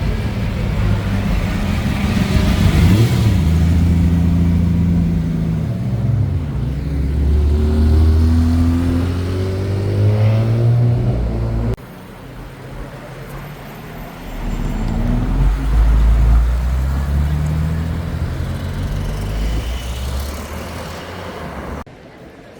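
Car engines accelerating. One engine's pitch rises and falls through the gears, the sound breaks off abruptly about halfway, and then a second engine comes in with its pitch climbing as it pulls away.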